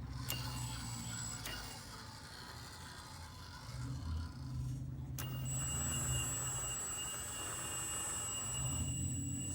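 Electric hydraulic pump of an RC model CAT 330D excavator: a low hum with a couple of clicks, then about five seconds in the pump starts with a sharp onset and runs on as a steady high whine.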